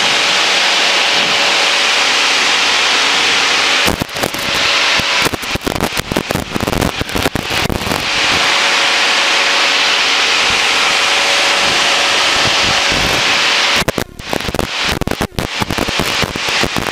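Steady drone of a Cessna light aircraft's engine and airflow inside the cabin, broken twice, from about four seconds in and again near the end, by several seconds of rapid crackling pops.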